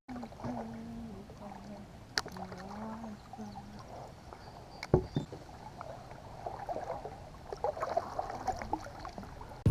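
Quiet handling sounds from a fishing kayak on the water, with a low wavering hum and a few light knocks and clicks, the sharpest about five seconds in.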